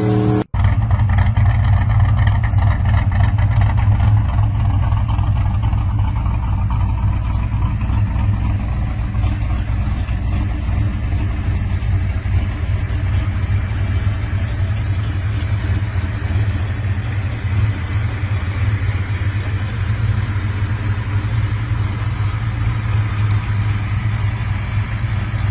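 Big muscle-car engine idling steadily with a deep rumble. The sound cuts out briefly about half a second in.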